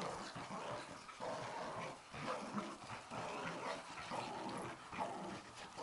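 Several dogs, a pug among them, making play noises, with yips and whimpers coming one after another as they tug at a fabric scarf.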